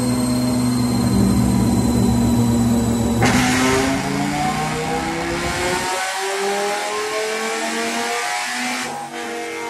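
Dodge Viper's stroked V10 engine at full throttle on a chassis dyno, its pitch climbing steadily as the revs rise through a pull. About three seconds in the sound changes abruptly and a second rising pull follows, breaking off again near the end.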